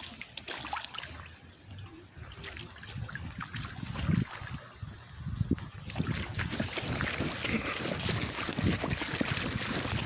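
Rainwater running into a street sewer during heavy rain: a steady trickling and splashing that grows louder and fuller from about six seconds in.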